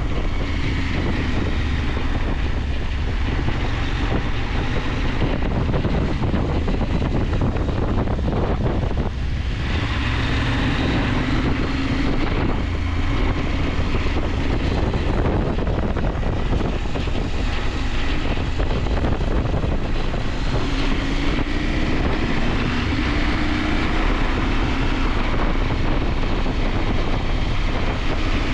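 KTM 890 Adventure's parallel-twin engine pulling the bike along, its note rising and falling with the throttle, over wind noise on the microphone. The engine sound drops away briefly about a third of the way in, then picks up again.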